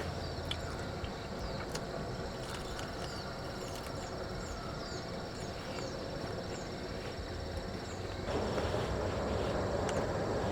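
Forest ambience with a steady high insect drone and a run of short, falling high chirps over a hiss, which gets louder about eight seconds in.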